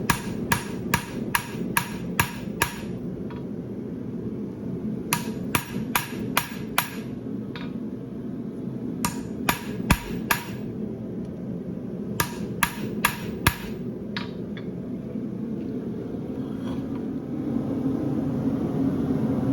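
Hand hammer striking a punch to drive nail holes through a hot steel horseshoe on an anvil, with a ringing clang on each blow. The blows come in four quick runs of about five to seven strikes, about three a second, over a steady low roar.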